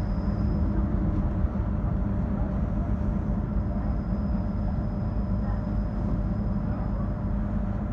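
Steady running rumble of a moving suburban train, heard from inside the carriage, with a faint high whine that fades in and out.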